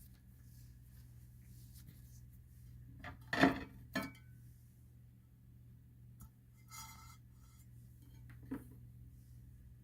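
Hard objects being handled and set down in a room, with two sharp clinks about three and a half and four seconds in, the second ringing briefly. A light rustle and a soft knock follow later, over a low steady hum.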